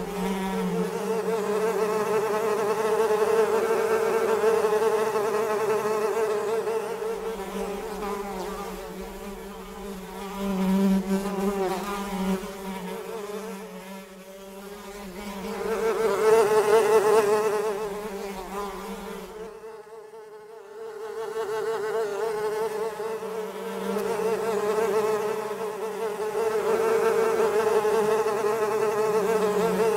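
Houseflies buzzing in flight: a steady droning hum, a lower and a higher buzz overlapping, swelling and fading as they pass. It drops almost out for about a second about two-thirds of the way through.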